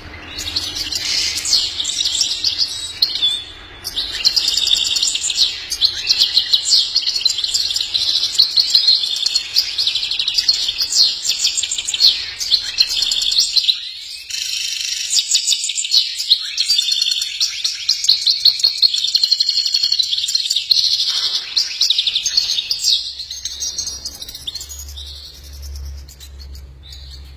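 Small birds chirping and twittering almost without pause in rapid, high-pitched, overlapping notes, with a brief lull a little under four seconds in.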